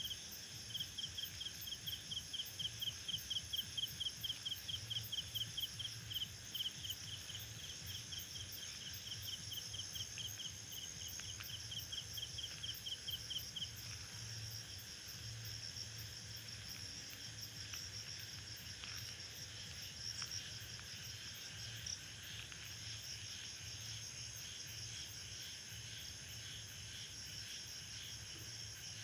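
A chorus of crickets and other insects trilling steadily. One loud chirping insect repeats about three times a second over the top and stops about halfway through.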